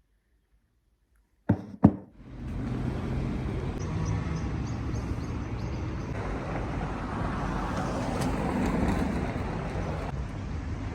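Two sharp knocks in quick succession about a second and a half in, then a steady low rumble with a faint hum.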